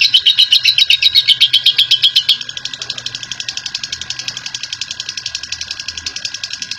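Lovebird's ngekek: a long, rapid chattering trill of about ten sharp notes a second. About two seconds in it switches to a quieter, slightly faster run of the same trill.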